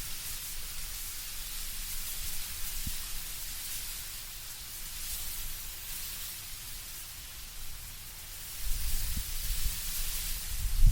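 Wind moving through autumn trees, leaves rustling in a steady hiss that swells and eases in gusts. A low rumble of wind builds near the end.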